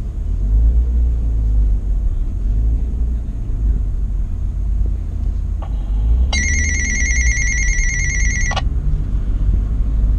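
Nissan Skyline R34 GT-T's turbocharged 2.5-litre straight-six idling with a steady low rumble. About six seconds in, a high, trilling electronic ring sounds for about two seconds and cuts off sharply.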